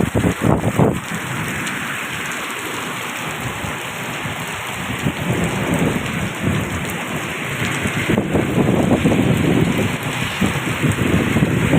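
Steady heavy rain falling, an even hiss. Low rumbling surges come in the first second and build again through the second half.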